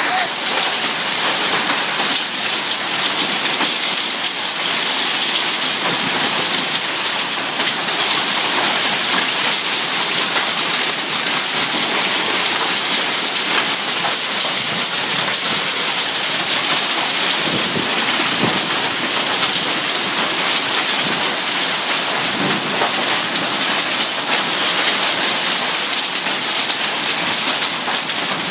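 Hail and rain falling heavily in a hailstorm, a dense, steady hiss of pelting stones and drops.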